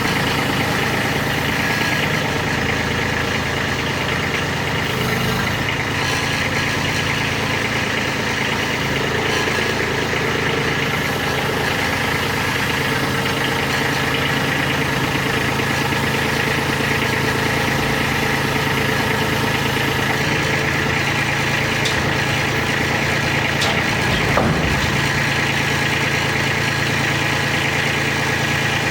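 An engine running steadily at idle, with one brief knock late on.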